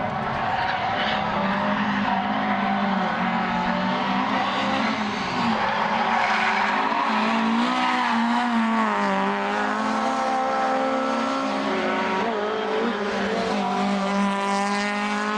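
Rally car engine running hard at high revs, its pitch rising and falling as it is driven through the gears.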